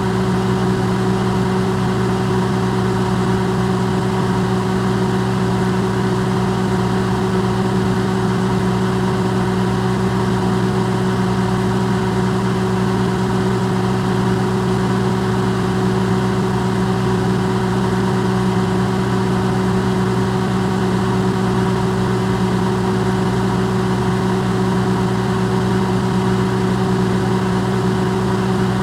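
Electrolux microwave oven running, recorded amplified: a steady, unchanging hum made of several fixed tones, low and mid, over an even hiss.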